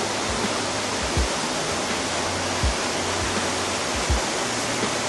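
Steady rush of falling water from a garden waterfall, even and unbroken, with a few soft low thumps.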